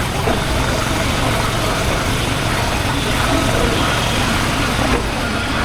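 Honda H'Ness CB350's single-cylinder engine and exhaust running steadily, a constant low rumble heard from the rider's position, with steady rushing noise over it.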